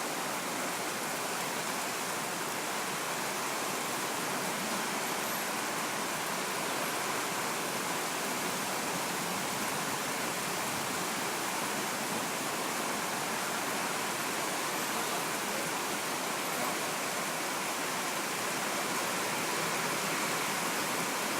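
Steady rushing of fast-flowing floodwater mixed with heavy rain, an even noise with no breaks.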